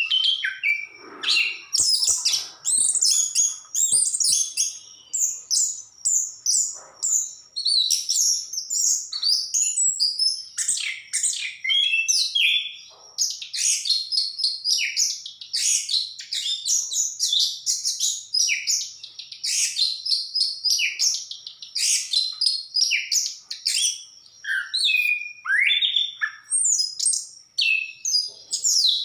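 Orange-headed thrush singing a long, unbroken song of quick, varied whistles, chirps and trills.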